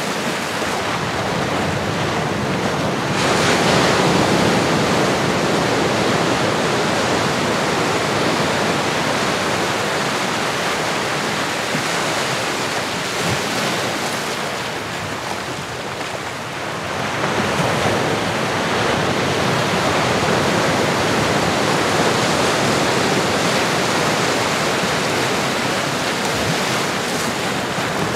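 Ocean surf: a steady rush of waves washing in, swelling louder about three seconds in and again just past halfway.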